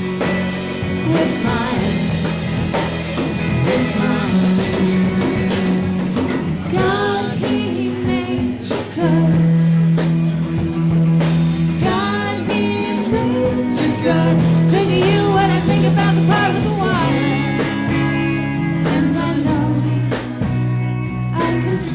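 Live rock band playing a song: singing over held bass notes, electric guitar and a drum kit.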